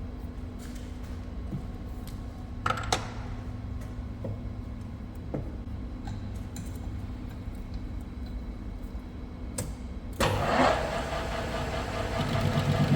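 Metal lathe running with a steady hum and a few clicks. About ten seconds in, a louder, rougher noise with ringing tones sets in suddenly.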